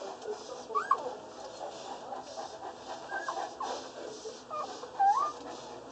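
Newborn Boerboel puppies, less than a day old, squeaking and whimpering: several short, high cries that rise and fall in pitch, over a steady hiss.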